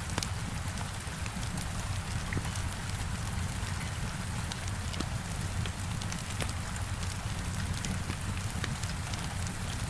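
Heavy rain falling with a steady hiss and a low rumble, mixed with a wood fire crackling in a fireplace: frequent small, irregular pops and snaps.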